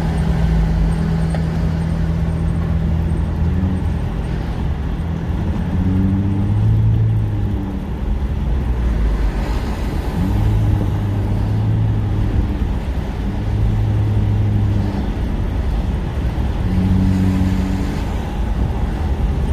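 Car engine and road noise heard from inside a moving car: a steady low rumble with an engine hum that shifts pitch every few seconds.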